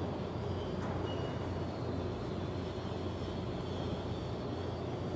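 Steady mechanical drone of shipyard machinery: a low hum with faint steady higher tones and no change in level.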